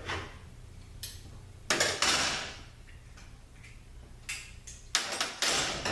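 Metal tools and transmission parts clanking and knocking on a workbench, in a handful of separate hits. The loudest ring briefly about two seconds in, and a quicker run of knocks comes near the end.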